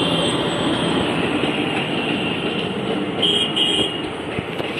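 Kanchanjunga Express, a passenger train hauled by an electric locomotive, passing with a steady rumble of wheels and coaches. Two short high squeals sound about three seconds in.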